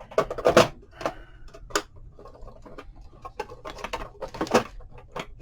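Hands handling small craft items on a work table: irregular light taps, clicks and rustles, with the loudest handling about half a second in and again around four and a half seconds.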